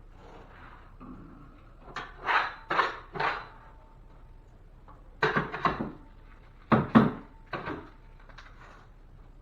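Drywall taping work: short, quick scraping and rustling strokes in a few bursts, three about two seconds in, then a cluster after five seconds and two more around seven seconds, from a taping knife and fiberglass mesh tape being worked on the ceiling seams.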